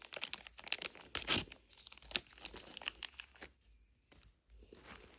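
Paper shell of a Fill the Fridge mini brands capsule being torn open by hand, with crinkling of its wrapping: dense crackling for about three and a half seconds, then a brief softer rustle near the end.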